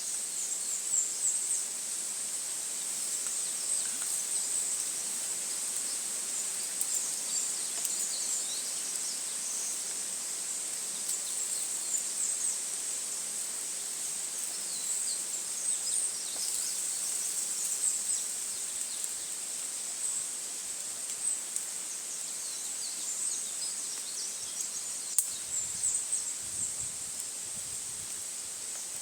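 Forest ambience: a steady, high-pitched insect chorus, with many short bird chirps over it and an occasional sharp click.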